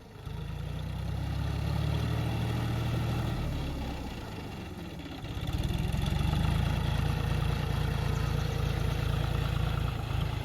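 Tractor engine running in a paddy field during ploughing, steady and low. It eases off about four seconds in and picks up again a second later.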